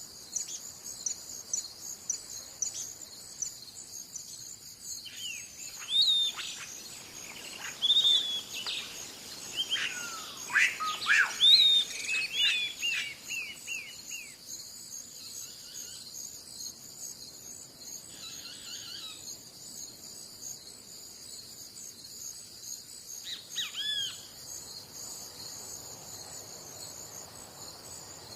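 Birds calling and chirping over a steady, high-pitched insect chorus. Most of the calls are bunched in the middle, with a short burst of calls again near the end.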